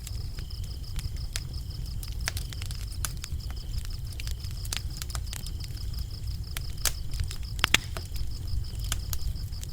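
Wood fire crackling with frequent sharp pops over a low steady rumble of flames, the loudest pop about three-quarters of the way through. Crickets chirp throughout in a steady high trill.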